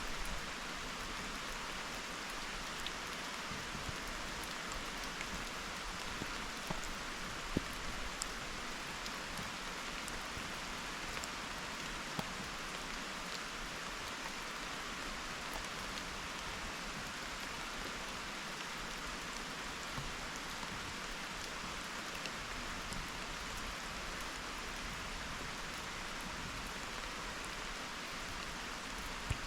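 Steady rain falling: an even hiss with scattered sharper drip taps.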